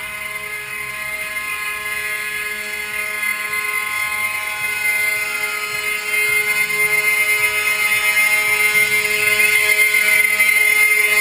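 Air horns of trucks in a passing caravan, several steady horn tones held together without a break and growing louder.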